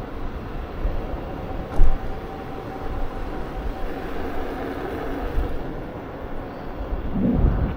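Electric unicycle riding noise: steady rumbling wind and rolling noise with a faint steady whine, a sharp thump about two seconds in and a louder rumble near the end.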